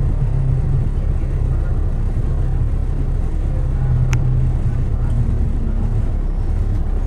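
Steady low rumble of city road traffic, dominated by a vehicle engine's low drone, with one sharp click about four seconds in.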